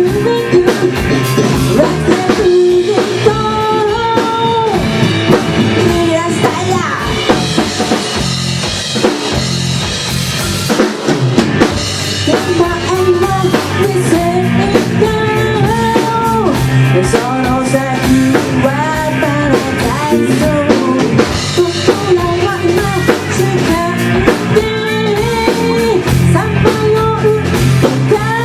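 Rock band playing live: drum kit, bass and electric guitar, with a wavering melody line carried over the top.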